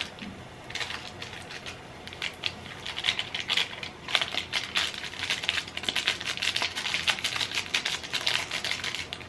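Water boiling hard in a ramen pot, a dense fast crackle and rattle of bubbles.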